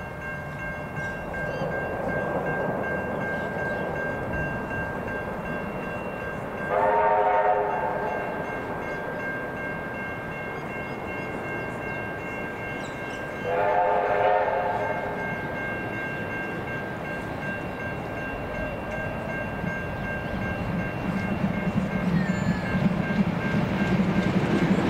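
Approaching heritage train, led by a steam locomotive, sounding two blasts of its signal about seven seconds apart. Each blast lasts about a second and is a chord of several notes. Over the last few seconds the rumble of the train working grows louder as it draws near.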